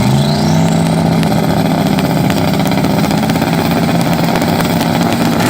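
Drag car engine running loud at high, nearly steady revs, with a thin rising whistle in the first second.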